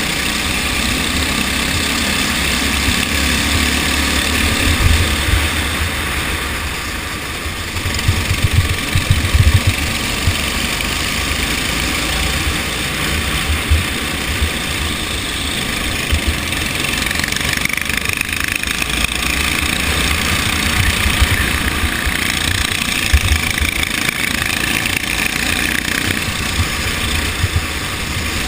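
Go-kart engine running under race load, with irregular low thumps clustered about eight to ten seconds in.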